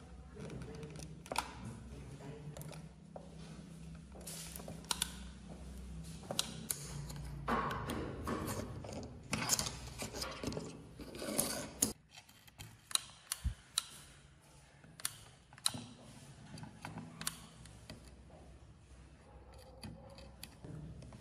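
Hand work on small parts: irregular clicks, taps and short scraping sounds. A low steady hum runs beneath them and cuts off about halfway through, leaving scattered clicks.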